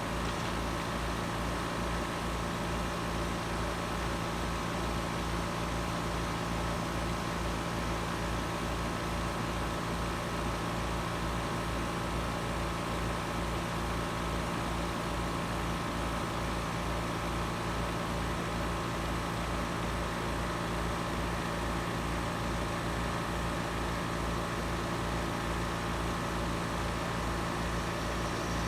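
Outdoor unit of a Trane XR14 3.5-ton heat pump running steadily in cooling mode: an even hum from the compressor and condenser fan, with no change in pitch or level.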